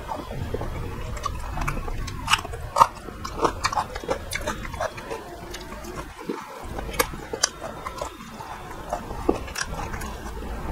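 Close-miked chewing and eating by hand: a person chews chicken and rice with many irregular wet mouth clicks and smacks.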